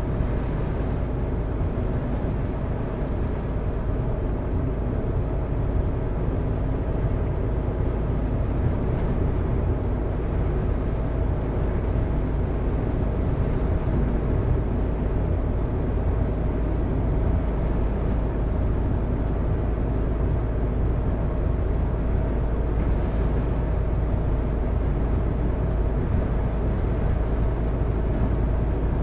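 A car driving: steady engine and tyre road noise, a low rumble with a faint steady engine hum.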